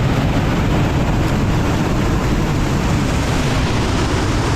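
Loud, steady rush of falling and running water from a waterfall and creek.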